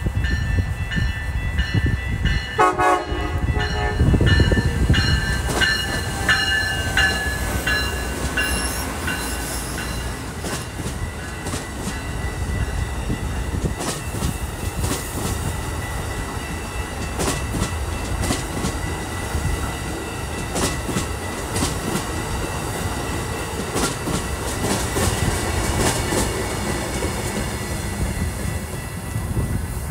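Amtrak passenger train passing close by: a horn blast about three seconds in, then the steady rumble of the cars with wheels clicking over rail joints as the train runs past.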